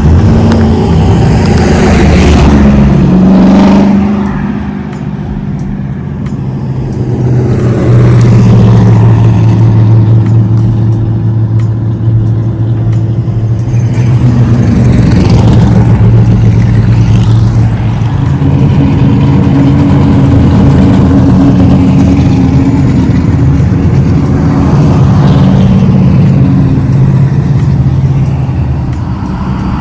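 Loud car engines running and revving, their pitch rising and falling as they pass.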